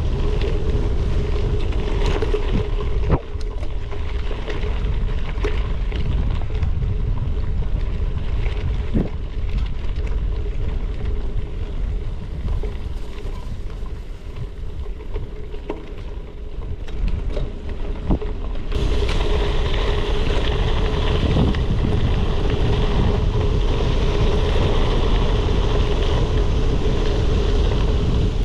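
Wind buffeting an action camera's microphone on a moving gravel bike, over the noise of tyres rolling on a forest trail, with a few sharp knocks from the bike. The hiss grows louder about two-thirds of the way in.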